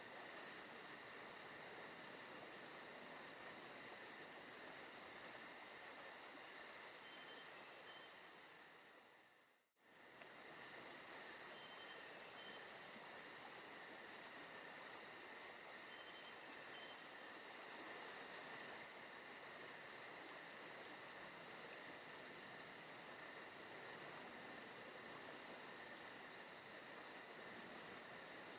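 Faint, steady chirping of crickets and insects in a recorded forest ambience. It fades out to near silence about nine seconds in, then comes straight back.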